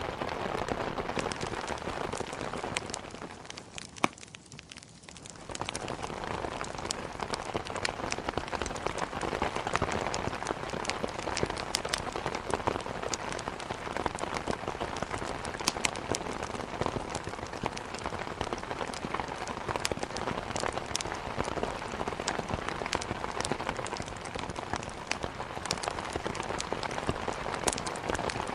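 Steady rain pattering on a window, mixed with the sharp, irregular crackles of a wood fire. The rain thins out briefly about three seconds in and comes back full about two seconds later.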